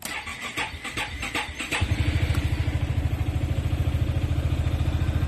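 Yamaha XMAX 300 scooter's single-cylinder engine cranked by its electric starter, catching after under two seconds and settling into a steady idle. It starts on one press, its starter motor's carbon brushes freshly cleaned of a cure for the hard start.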